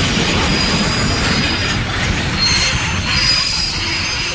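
Train running sound: a steady rumbling rolling noise with high-pitched squealing tones held over it, dipping slightly about two seconds in.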